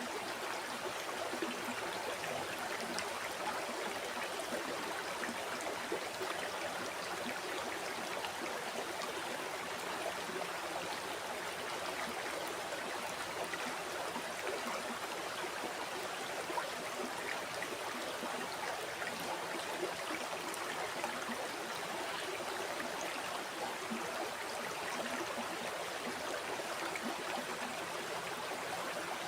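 River water flowing steadily over rocks, an even rushing with small trickles and gurgles through it.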